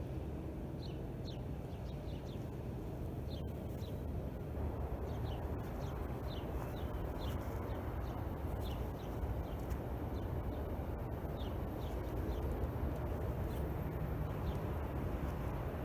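Small birds chirping in quick short falling notes, several a second, over a steady low rumble.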